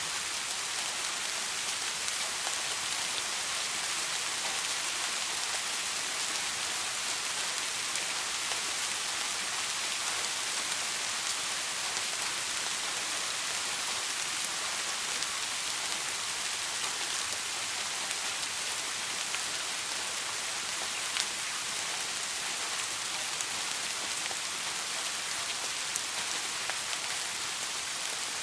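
Steady soft rain falling: an even hiss, with now and then a single sharper drop ticking out. No thunder is heard.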